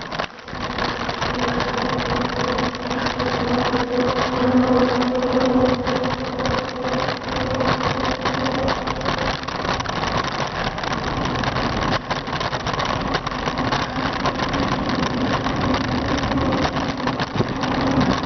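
Wind rushing over the microphone and road noise from a bicycle in motion, with a steady droning hum underneath.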